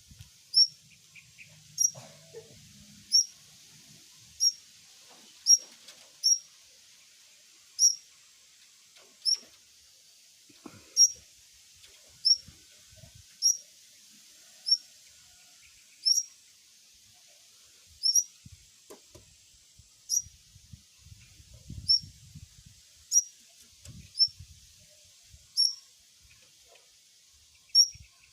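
A bird's short, high chirp, repeated about once a second with slightly uneven gaps, about twenty times.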